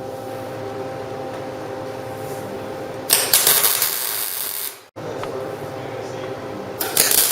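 MIG welder arc crackling in two bursts of about a second and a half each, one a little after three seconds in and one near the end, over a steady shop hum.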